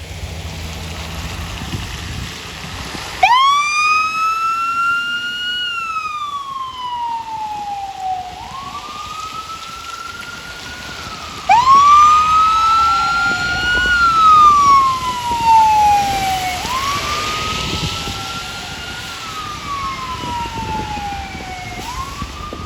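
Emergency vehicle sirens wailing, a fire engine's and an ambulance's together: one siren starts about three seconds in, a second joins it, and the two run out of step with each other, each rising quickly and then falling slowly over a few seconds. They are loudest past the halfway point.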